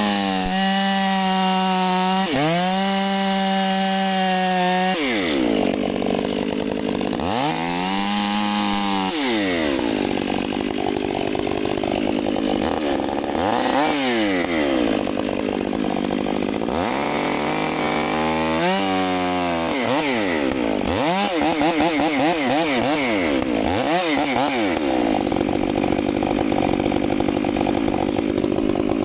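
Chainsaw engine running at full throttle, then its pitch repeatedly sags and recovers as the bar loads up and eases off in the wood while cutting a tree.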